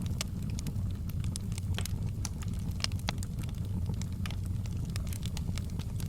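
Wood fire in a fireplace crackling, with many sharp irregular pops and snaps over a steady low rumble of burning.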